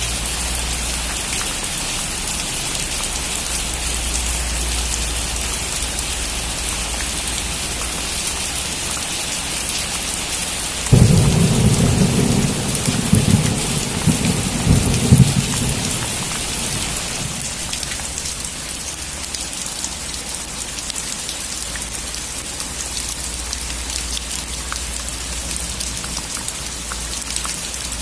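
Steady heavy rain hissing, with a sudden clap of thunder about a third of the way in that rumbles in several swells for about five seconds before dying back into the rain.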